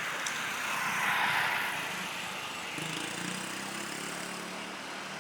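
Steady vehicle engine noise that swells slightly about a second in, with a low engine hum joining from about three seconds in.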